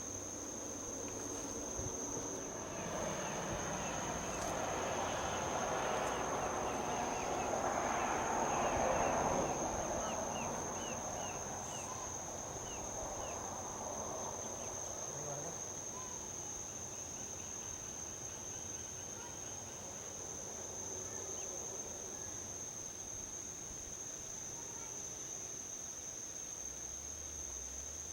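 A steady high-pitched insect trill, with a vehicle passing on a highway: a wash of road noise that rises over several seconds, peaks near the middle and fades away. A few faint bird chirps sound shortly after the peak.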